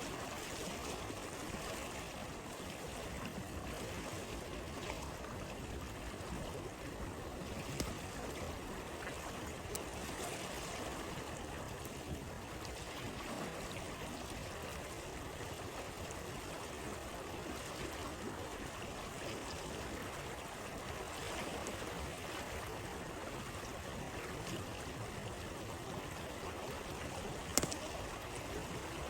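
Flowing stream running steadily, with a wood campfire crackling in a few sharp pops, the loudest near the end.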